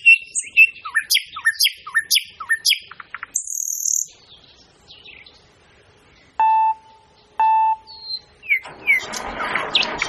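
Birds chirping in quick, repeated falling calls for the first few seconds, then two short steady beeps about a second apart. Near the end the mini tractor's small engine starts up and keeps running.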